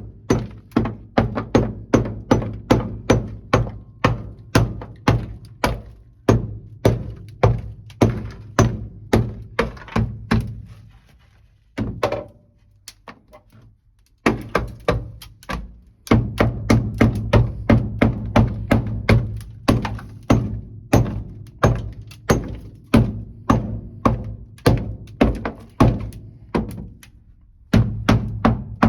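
Mallet striking the car's floor pan again and again, about two to three blows a second, knocking off sound deadening made brittle by dry ice, with the sheet metal ringing under the blows. The blows stop for a few seconds about halfway through, then carry on.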